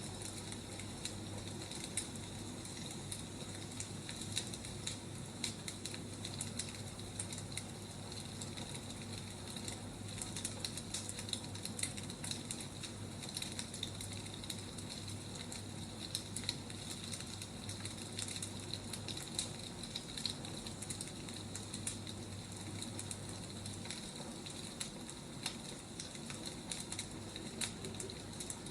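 Wood fire crackling: a steady hiss with many small pops and snaps scattered throughout.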